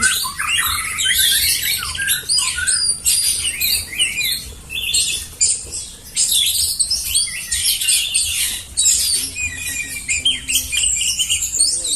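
Several songbirds singing at once: a dense, unbroken chorus of fast high whistles, chirps and trills.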